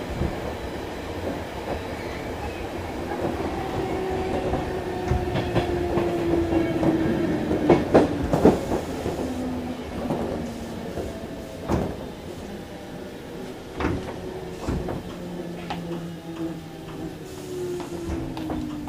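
Odakyu 5000 series electric train running and slowing: its motor whine falls slowly in pitch, with sharp wheel knocks over rail joints and points.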